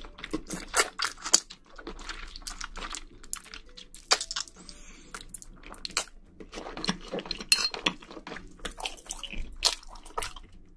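Close-miked eating of wide Chinese glass noodles in spicy sauce: slurping and wet chewing, with many irregular wet mouth clicks and smacks.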